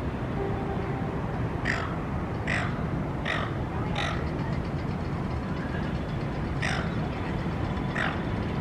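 A bird gives short, harsh calls: four about a second apart, then two more after a pause, over a steady low rumble of city traffic.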